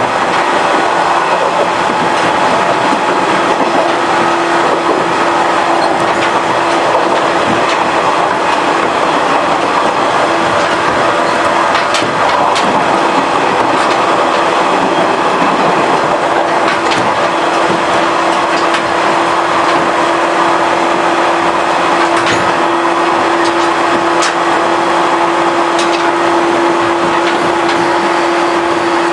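115 series electric multiple unit running along the line at a steady speed: continuous wheel and running noise, with a steady tone joining about four seconds in and a few sharp clicks from the rails here and there.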